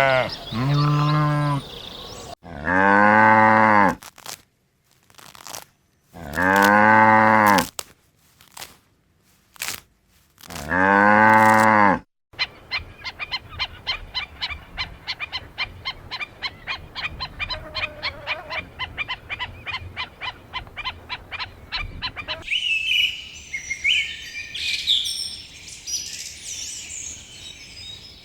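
Farm animal calls in sequence: a goat's bleats at the start, then three long, low cow moos with sharp clicks between them. After that comes about ten seconds of fast, even clicking, and near the end small birds chirping.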